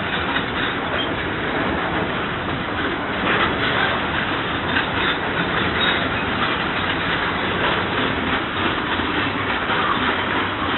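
Fuel tank wagons of a freight train rolling past close by: a steady rolling noise of steel wheels on rail, with the clickety-clack of wheels over rail joints now and then.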